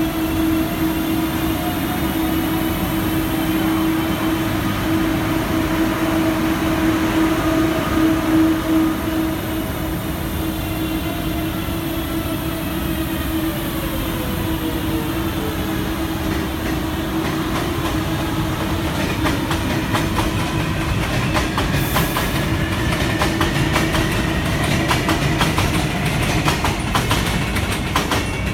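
Guangzhou Metro Line 1 train running, its electric traction motors whining. One tone slides down about halfway through, then several whine tones rise in pitch through the second half. Rapid wheel clicks over rail joints come in for the last several seconds.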